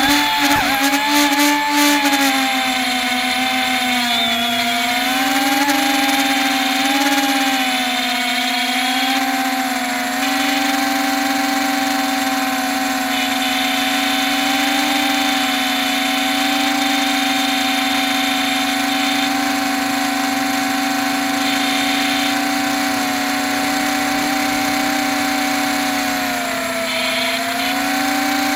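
HBx multirotor drone's electric motors and propellers buzzing in flight. The pitch wavers and shifts in the first seconds, then holds mostly steady and dips briefly near the end. The owner describes it as flying rough, with a bad motor and a loose arm after a dog chewed it.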